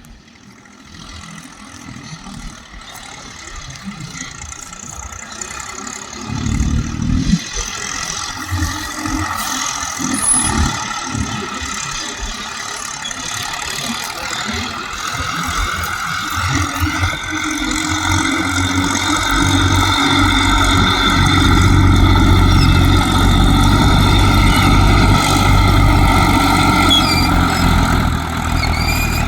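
Massey Ferguson tractor's diesel engine working under load while hauling out of a field. It grows steadily louder as it approaches, loudest in the last third, with uneven knocking and rattling in the middle stretch.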